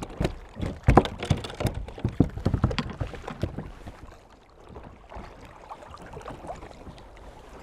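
Handling sounds aboard a fishing kayak while dealing with a freshly caught fish: a quick, irregular run of knocks and taps against the hull and tackle for the first four seconds or so, then fewer, quieter taps.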